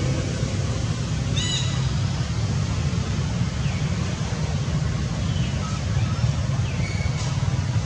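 Steady low outdoor rumble, with a few short high-pitched calls standing out over it, about a second and a half in, near the middle, and near the end.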